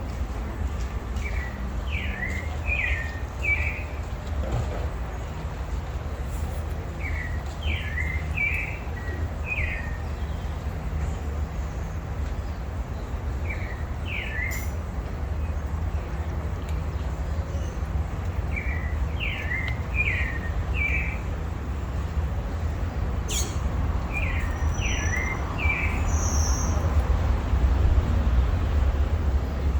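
A songbird repeating a short phrase of three to five quick sweeping notes, five times, about every five to six seconds, over a steady low rumble.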